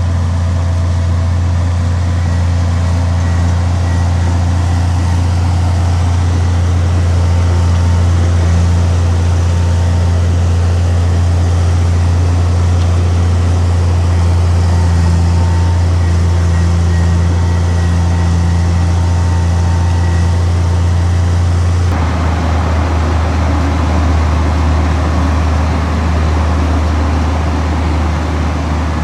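Heavy diesel engine of earthmoving machinery running steadily with a strong low hum; the sound changes abruptly about three quarters of the way through.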